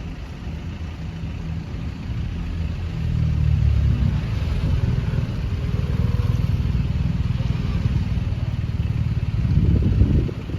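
A heavy vehicle rumbling past, loud and low, swelling about three seconds in and dropping away near the end.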